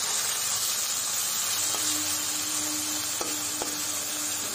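Fresh fenugreek leaves sizzling in hot oil in a metal kadai while a metal spatula stirs them, with two light clicks of the spatula against the pan a little after three seconds in. A faint steady hum joins about two seconds in.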